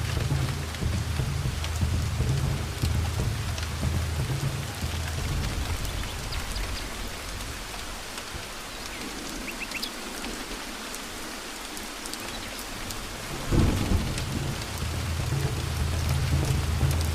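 Steady rain pattering, with thunder rumbling low underneath. The rumble dies away midway, then a sharper thunderclap about three-quarters of the way through brings it back, and a few faint bird chirps sound in the middle.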